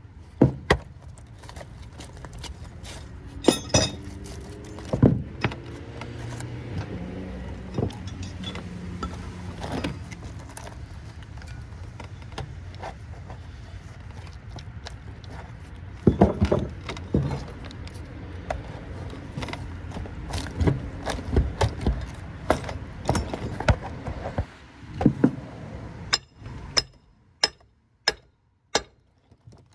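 Hand tools clinking and knocking on the metal of a scrap transformer, in irregular sharp strikes over a low steady hum. Near the end come evenly spaced clicks, a little under two a second.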